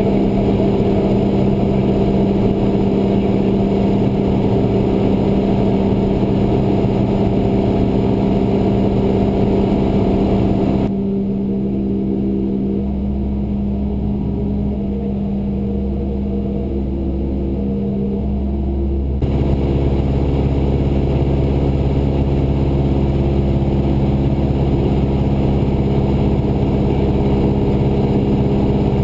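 Cessna 172's piston engine and propeller droning steadily in cruise, heard from the cockpit. About a third of the way in the sound turns muffled for some eight seconds, then comes back in full.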